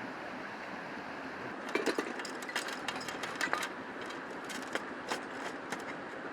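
Steady rushing of a nearby river, with a scatter of small sharp clicks and knocks through the middle of the stretch.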